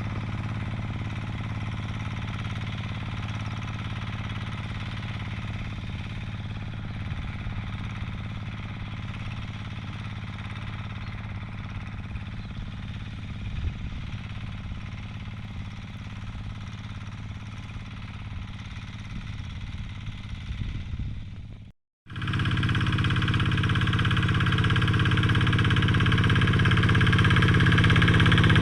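Diesel engine of a Quick G3000 two-wheel hand tractor running steadily. About 22 seconds in the sound cuts out for a moment, then the engine comes back louder and keeps getting louder.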